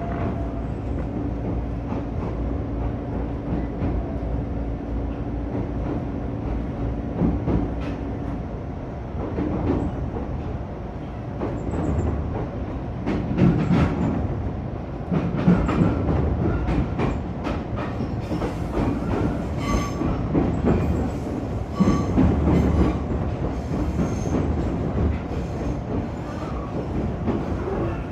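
A train running through the Nihongi switchback with a steady hum for the first eight seconds or so. After that its wheels clack and knock repeatedly over rail joints and points.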